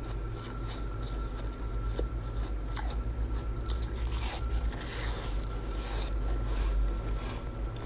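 Chest-freezer frost ice being bitten and chewed: a run of crisp, irregular crunches, over a steady low hum.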